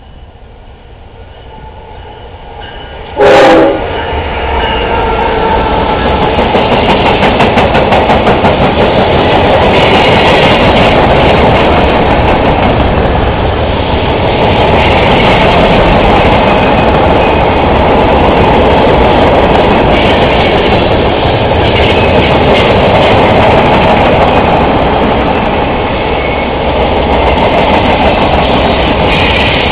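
Diesel freight train approaching with its horn sounding, then passing close by. A brief, very loud burst comes about three seconds in. After that the locomotives and cars make a loud, steady rumble, with the wheels clattering over the rail joints.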